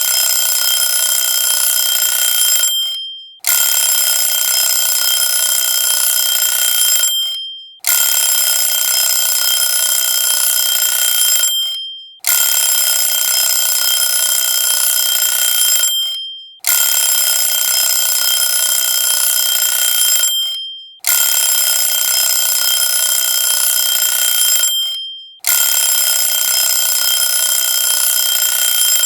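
A timer alarm ringing loudly in repeated bursts of about four seconds, each fading at its end and followed by a short break; the bursts repeat about seven times.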